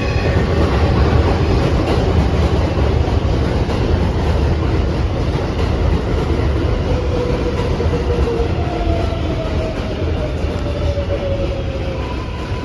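New York City Subway 7 train running on the track, a steady loud rumble with a faint whine that falls in pitch over the last few seconds.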